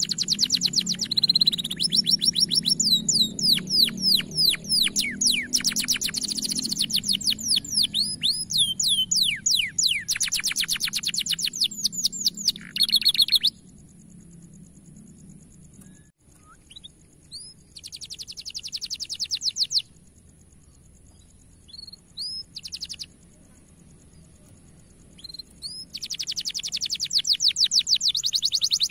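Domestic canary singing: long runs of fast, rapid-fire trills for the first half, then a pause of a few seconds with only scattered single notes and one short trill, and dense trilling again near the end.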